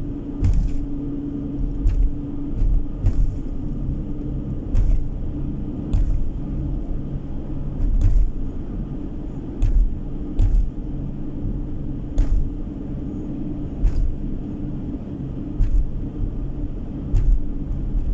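A car driving along a road, heard from inside the cabin: a steady low drone of engine and tyre noise, with short knocks from bumps in the road surface every second or two.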